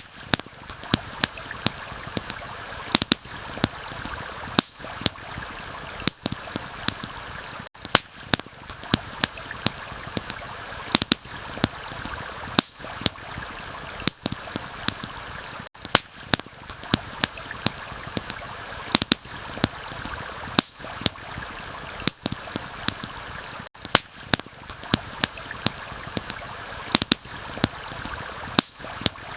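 Steady rush of flowing stream water, with a campfire crackling throughout in many sharp irregular pops.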